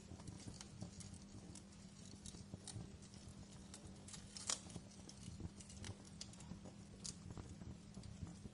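Wood fire crackling softly: irregular small pops and snaps, one sharper pop about halfway through, over a faint steady low hum.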